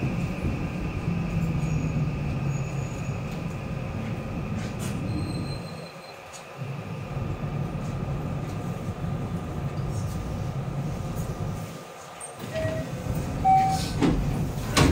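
Interior of an electric commuter train running into a station: a steady rumble with a thin motor whine over it. The rumble dies away as the train stops about twelve seconds in. A couple of short tones follow, then loud clunks as the doors slide open near the end.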